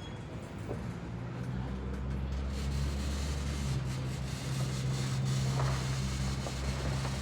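CSX freight train rolling past, a low steady rumble that builds up over the first couple of seconds and then holds.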